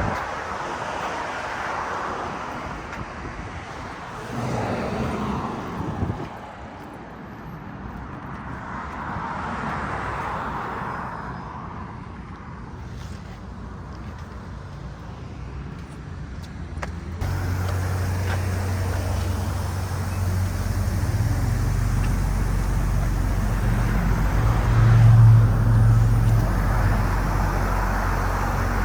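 City street traffic: cars passing one after another, each swelling and fading. About two-thirds of the way in, a steady, louder low rumble takes over abruptly.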